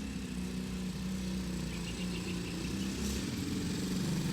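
125 cc dirt bike engine idling steadily while it warms up.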